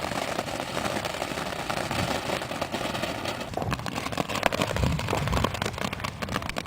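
Ground firework fountain burning with a steady hiss, breaking into rapid crackling from about halfway through.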